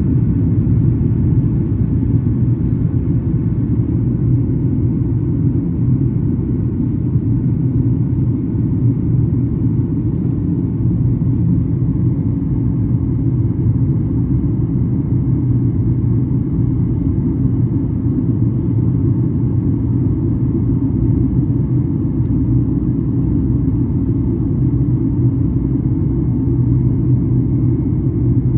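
Steady, loud low drone inside the cabin of a Boeing 737 MAX 8 in flight, from its CFM LEAP-1B engines and the airflow over the fuselage.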